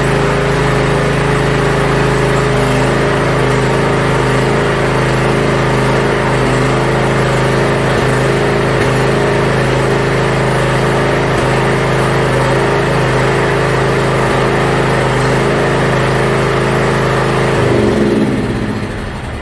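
Yard Machines riding mower engine running steadily, then shut off near the end, its pitch dropping as it winds down.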